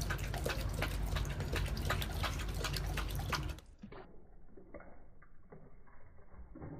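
A dog lapping water with its tongue, quick wet splashes about four a second. About three and a half seconds in, the sound drops to a much quieter, duller, slowed-down lapping with sparse splashes.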